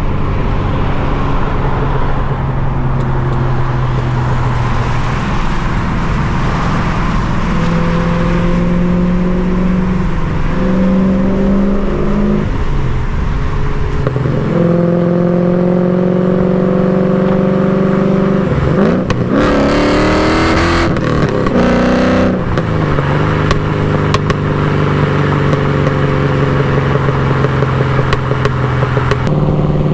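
LS1 V8 exhaust of a swapped BMW E36 while driving: the engine holds a steady speed, climbs in pitch twice around a third of the way in, then about two-thirds through the note drops, turns briefly rough and noisy with a quick rising rev, and settles back to a steady lower drone before rising again at the very end.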